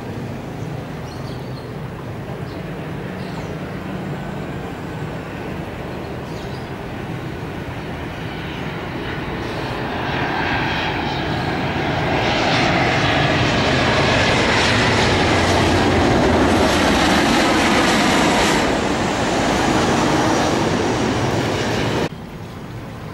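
Airliner on landing approach passing low overhead: its engine noise grows louder about ten seconds in, stays loud for several seconds and cuts off suddenly near the end.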